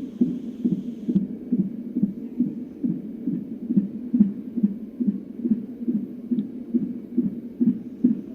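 Unborn baby's heartbeat through a fetal heart-rate monitor's Doppler speaker: an even, fast pulse of about two and a half beats a second.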